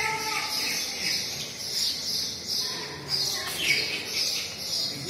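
Small birds chirping in an unbroken string of high chirps, about two or three a second, with faint voices of people talking under them.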